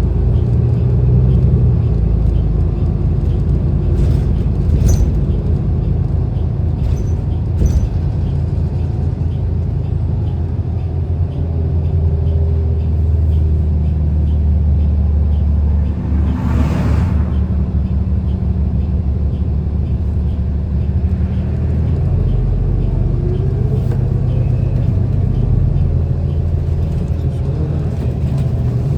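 City bus heard from inside the cabin while riding: steady low engine and road rumble, with a short hiss a little past halfway through and a few light rattles.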